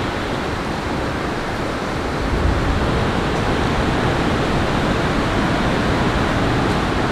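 Steady rushing of water, which grows louder and deeper about two seconds in.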